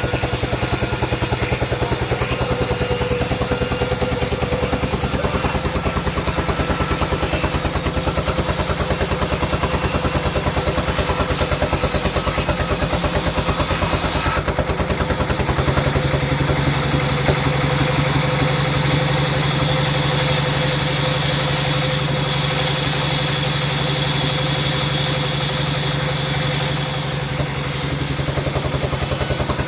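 Sawmill machinery running steadily with a fast, regular pulsing beat. Its low tone shifts and strengthens about halfway through.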